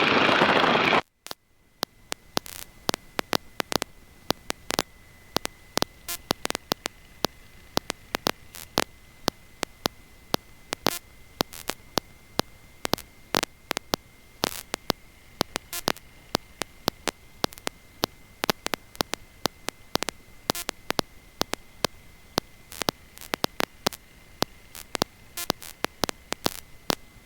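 The loud cockpit sound cuts out about a second in. What remains is a faint electrical hiss with frequent, irregular sharp static crackles and a steady high-pitched whine: an audio-line dropout.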